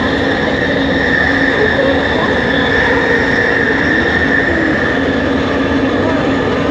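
Bombardier Innovia ART 200 train running at speed, heard from inside the car: a steady high whine from its linear induction motor propulsion over a constant rumble of the running gear.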